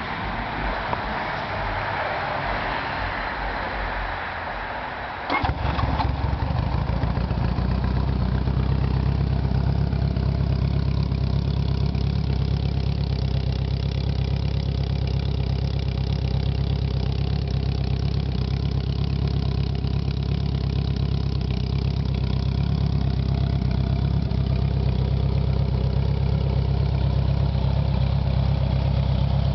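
Honda Gold Wing GL1100's flat-four engine, fitted with a 4-into-1 header exhaust, cranking on the starter and catching about five seconds in, then idling steadily.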